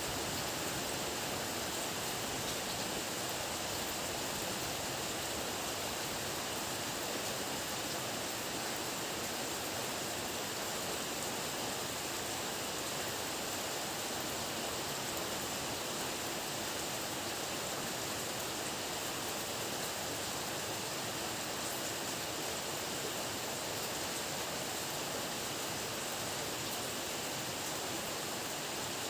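Heavy rain falling, a steady even hiss with no thunder or other sudden sounds.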